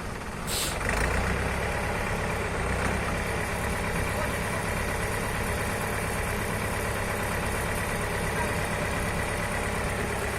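Tractor engine running steadily. A short hiss comes about half a second in, then the engine gets louder and holds steady.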